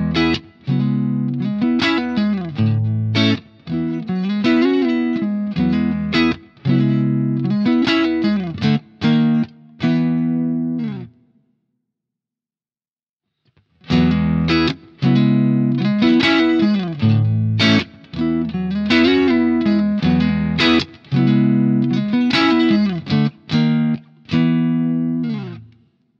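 Electric guitar played through a Crazy Tube Circuits Stardust V3 blackface-style overdrive pedal into a Marshall JTM45 amp, with a lightly overdriven tone. A phrase of chords and single notes lasts about eleven seconds, stops for about two seconds, and is then played again.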